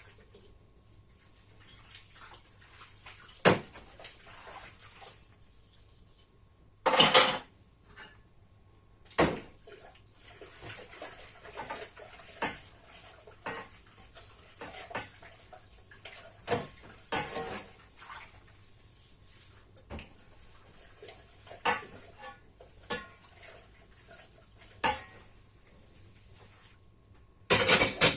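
Dishes, pots and cutlery clattering during kitchen work: scattered clinks and knocks, with a few louder bangs, one about three and a half seconds in, around seven and nine seconds, and a loud cluster near the end.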